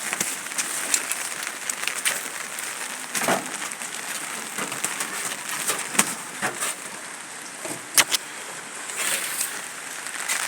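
Steady rain falling, an even hiss with scattered louder drips and taps landing close by.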